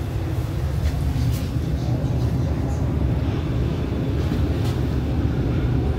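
Steady low rumble of an MTR East Rail line R-Train electric multiple unit running along the track, heard from on board, with a few faint clicks.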